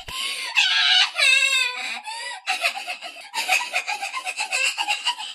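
High-pitched crying of a kitten: a string of short, wavering sobs and whimpers.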